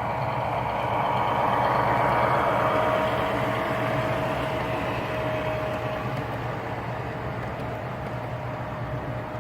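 O scale model diesel train running past, with a steady hum, growing louder to about two seconds in and then slowly fading.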